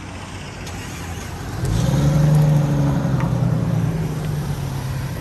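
A car engine passing close by, coming up loud with a low, steady engine note about a second and a half in and staying loud, easing off slightly toward the end.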